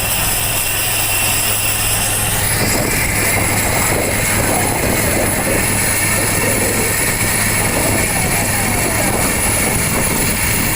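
Helicopter running close by: a steady high turbine whine over a steady low rotor hum. The pitch of the whine shifts about two and a half seconds in.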